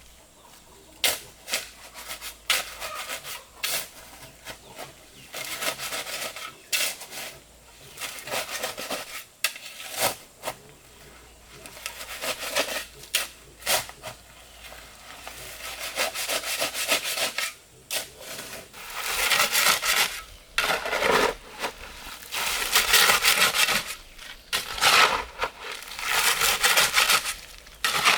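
Repeated rubbing and scraping strokes in irregular spells, broken by sharp clicks, growing louder over the second half.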